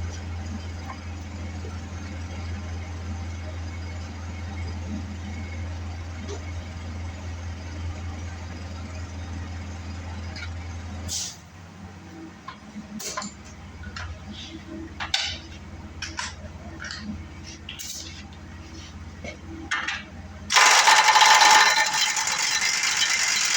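A steady low hum for about the first eleven seconds, then scattered metallic clinks and knocks of hand tools on the truck's steering parts. About twenty seconds in, a loud steady noisy sound starts and runs on.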